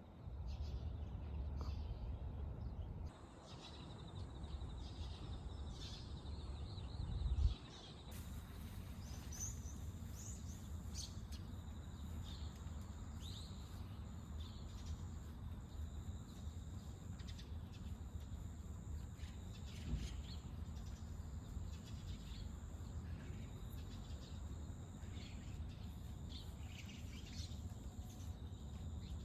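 Small birds chirping, many short calls, over a steady low outdoor rumble. Brief thumps sound about seven and a half seconds in and again around twenty seconds in.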